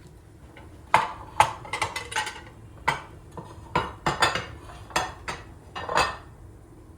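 Kitchen utensils clinking and knocking against dishes: about a dozen sharp, irregular hits with a short ring, starting about a second in and stopping near six seconds.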